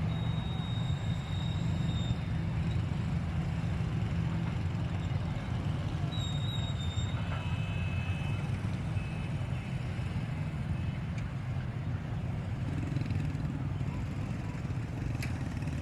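Diesel locomotive running with a steady low rumble, with a few faint high whistling tones over it near the start and again about halfway through.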